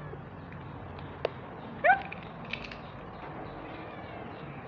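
A cat gives one short, rising meow about two seconds in. A single sharp click comes just before it, over faint background hiss.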